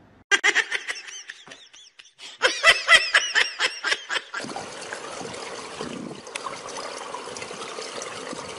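Quick bursts of high-pitched laughter for the first few seconds, then a steady wash of swimming-pool water.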